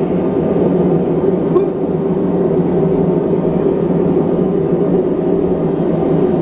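Blacksmith's forge running with a steady, even rushing noise while the iron bar reheats in the fire, with one faint click about a second and a half in.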